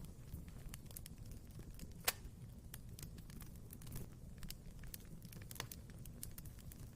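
Wood fire crackling in a fireplace: scattered small pops and snaps over the low steady rumble of the flames, with one louder snap about two seconds in.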